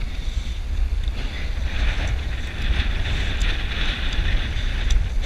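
Wind buffeting the microphone while riding a bicycle: a steady low rumble with a hiss over it.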